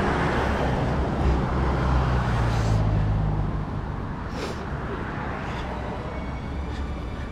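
Road vehicle running: a steady low engine rumble under a rush of road and traffic noise, with a few light knocks.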